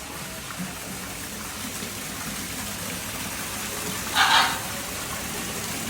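Steady rush of running water, with one short, loud, harsh sound about four seconds in.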